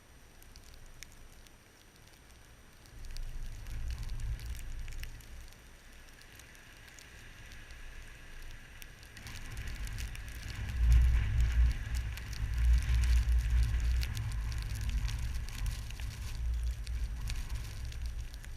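Blizzard wind gusting and buffeting the microphone in waves, strongest from about ten seconds in, with faint scattered crackling ticks over a steady hiss.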